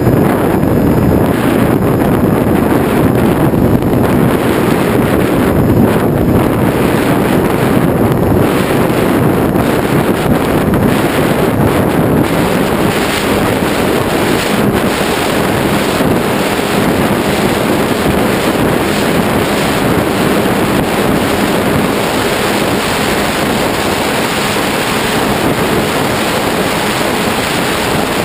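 Strong wind buffeting a GoPro camera's microphone: a loud, steady rushing roar.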